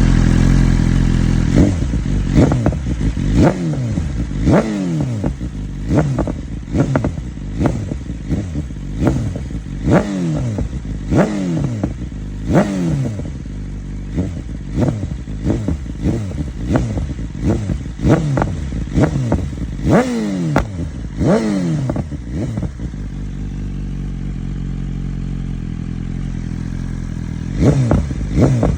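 BMW S1000RR K67 inline-four engine through a full Akrapovic exhaust, revved in repeated quick throttle blips about once a second, each rising sharply and falling back. It settles to a steady idle for a few seconds near the end before the blips start again.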